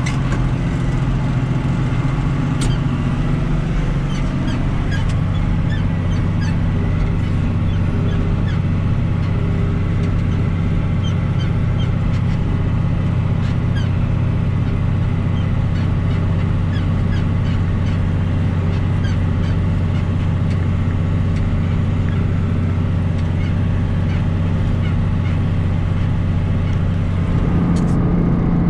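John Deere 2940 tractor's six-cylinder diesel engine running steadily while pulling a rotary hay rake. Its note drops about four seconds in and rises again near the end.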